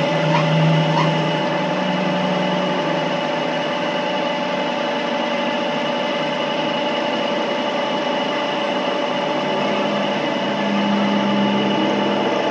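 A machine running steadily: an even whir with several steady tones and a low hum, a little louder near the end.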